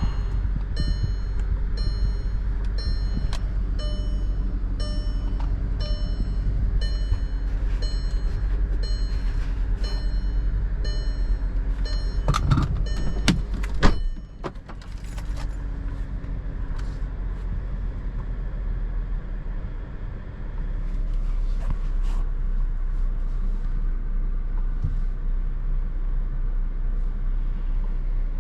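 Car's warning chime repeating about every 0.7 s over the low hum of the car. About halfway through come a few sharp clicks and a knock, the chime stops, and a steady low rumble of the car carries on.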